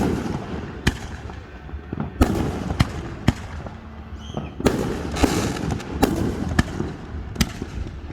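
Aerial fireworks show: about ten sharp bangs of bursting shells, roughly one a second and uneven in spacing, each trailed by a rolling low rumble.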